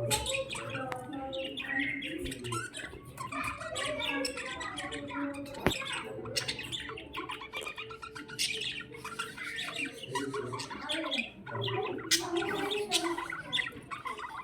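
A flock of budgerigars chirping and squawking all at once, a continuous overlapping chatter of short calls.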